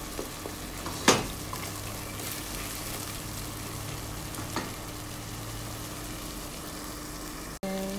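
Chopped tomatoes and onions frying with a steady sizzle in a stainless steel pot while a wooden spatula stirs them, with a sharp knock about a second in and a lighter one midway.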